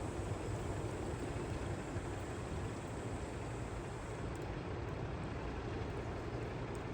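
Steady outdoor background noise, a low rumble with an even hiss and no distinct events.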